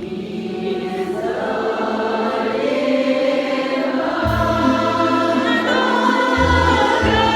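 Music: a choir holding long sung notes over instrumental accompaniment with separate bass notes, in the interlude between verses.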